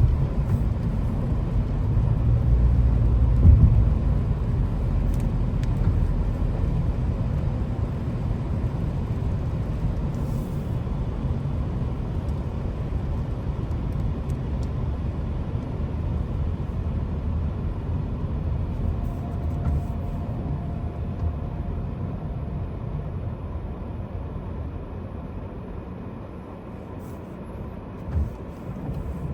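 Low, steady rumble of road traffic that slowly fades, with a couple of brief thumps near the end.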